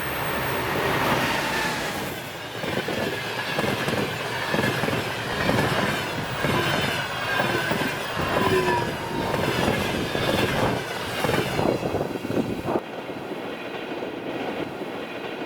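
Passenger cars of a fast train going by, their wheels clattering over the rail joints with some thin wheel squeal. The clatter stops abruptly about 13 seconds in, leaving a quieter steady hiss.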